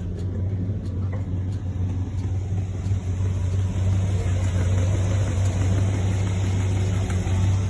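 A car engine idling steadily with a deep, even hum.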